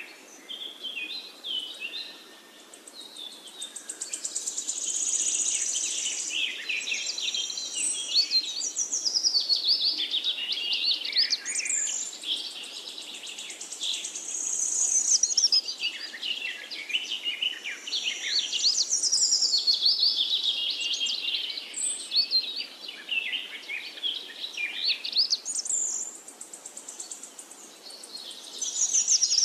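Small birds chirping and twittering rapidly in high-pitched trills, the chorus swelling and fading every several seconds.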